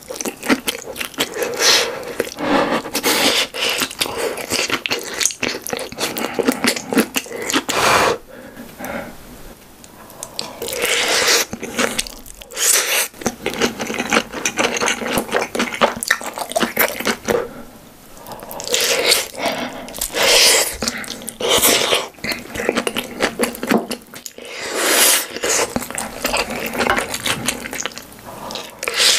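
Close-miked chewing of cheesy corn: dense wet mouth clicks and smacks, with several louder bursts spread through.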